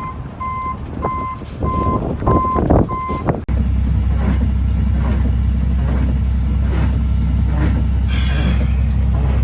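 A vehicle's reversing alarm beeping, short beeps of one tone about twice a second over a vehicle's running noise. After a sudden cut about three and a half seconds in, a steady low hum takes over.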